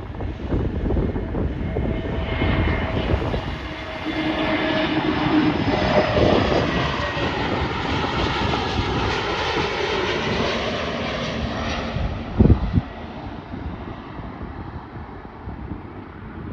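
Jet airliner passing on landing approach, its engine noise building and then fading, with whining tones that slide down in pitch as it goes by. Wind rumbles on the microphone throughout, and there is a short loud thump about three-quarters of the way through.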